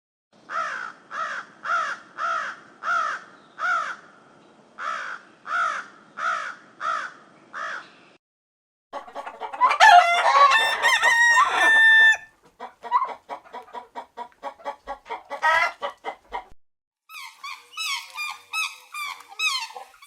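Chickens: a run of evenly spaced clucking calls, about two a second, for the first eight seconds, then a rooster crowing loudly for about three seconds. Quicker clucking and high, fast chirping calls follow near the end.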